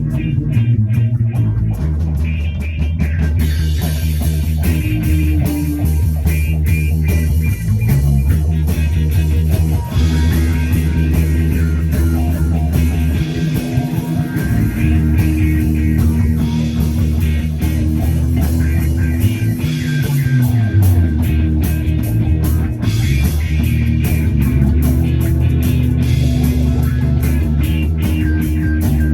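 Rock music: a deep bass guitar line with a couple of sliding notes, over guitar and drums keeping a steady beat.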